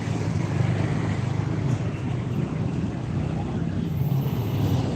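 Steady low rumble of a vehicle on the move in traffic: engine and road noise.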